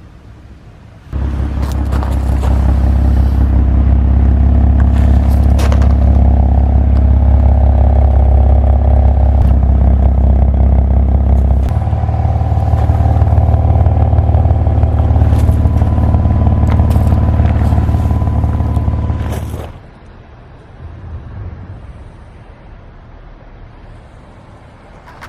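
2019 BMW M4 CS's twin-turbo straight-six with an Akrapovic exhaust, running loudly at a fairly steady engine speed as a deep exhaust drone. It starts abruptly about a second in, changes tone about halfway through, and drops away near the end to a much fainter rumble.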